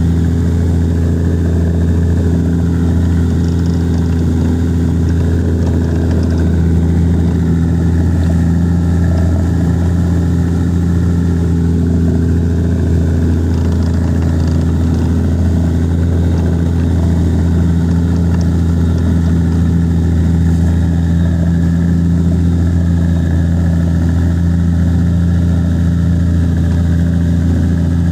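An engine running steadily at a constant speed: a loud, even, low drone that does not change.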